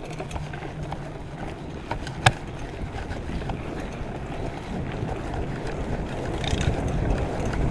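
Wind rushing over the microphone and tyres on wet pavement while riding a bike at speed, a steady rumbling rush that grows slightly louder toward the end. A single sharp click sounds a little over two seconds in.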